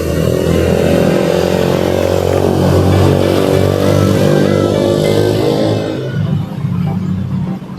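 A motor vehicle engine passing close by, building up and then fading away after about six seconds, over background music.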